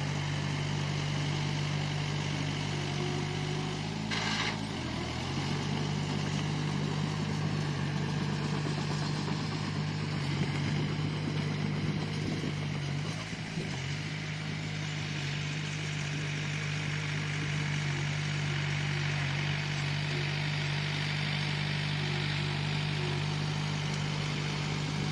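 Bulldozer's diesel engine running steadily, its pitch dipping briefly about four and a half seconds in and again about halfway through.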